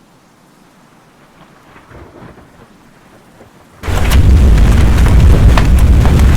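Thunderstorm: a quiet stretch with a faint swell of rumble, then about four seconds in a sudden loud rush of heavy rain and wind, with a deep rumble and a patter of sharp drop impacts.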